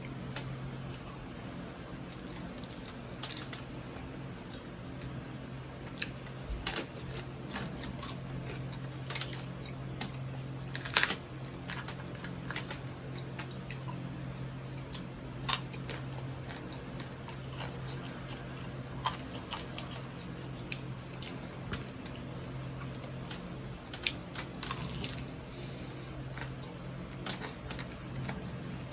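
Close-up eating of deep-fried pork knuckle (crispy pata): chewing and biting with scattered crunches and clicks, the sharpest about eleven seconds in, over a steady low hum.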